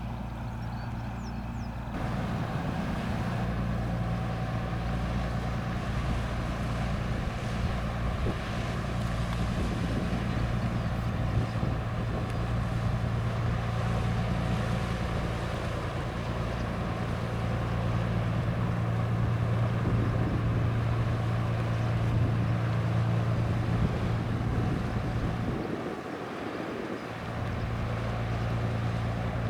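Diesel engine of a passing vessel on the river running steadily with a low hum, growing louder about two seconds in, with wind on the microphone.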